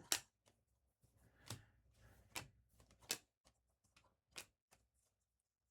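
Trading cards being flipped through by hand: a few faint, sharp clicks at uneven intervals as cards are slid and snapped against the stack, with light rustling between them.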